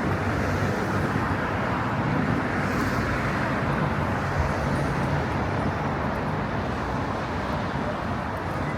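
Steady city street traffic: cars and other motor vehicles running past, an even wash of engine and tyre noise with no single event standing out.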